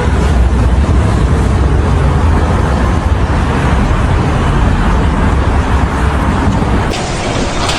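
A steady, low engine rumble with a constant wash of noise; the sound changes abruptly about seven seconds in.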